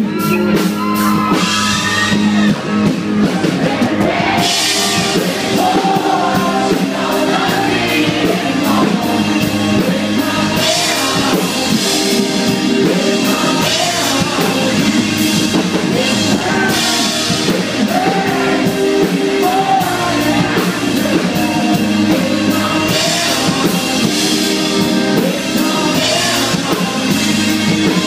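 Live band music with a male lead vocal singing over drums and electric guitar, recorded from the crowd.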